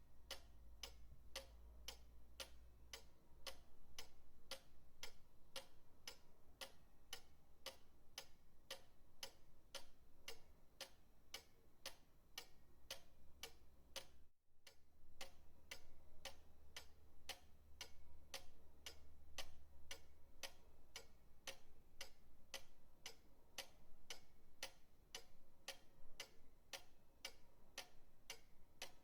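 Pendulum clock ticking at an even, steady pace of about two ticks a second, with a momentary gap a little before halfway.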